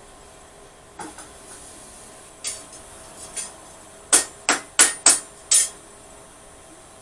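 Hand hammer striking steel on an anvil while forging a blade: a few lighter knocks, then five sharp ringing blows at about three a second.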